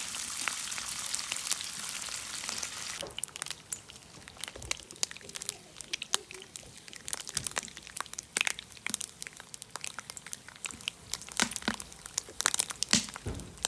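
Food sizzling in a hot frying pan for about the first three seconds, cutting off suddenly. Then scattered crackles and crinkling clicks follow.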